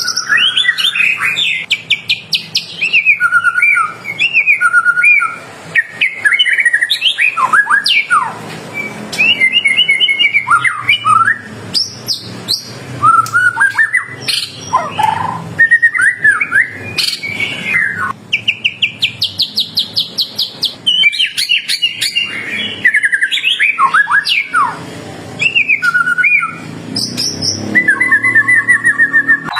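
White-rumped shama (murai batu) singing continuously: a fast, varied run of loud whistles, trills and rapid chattering notes with many rising and falling phrases.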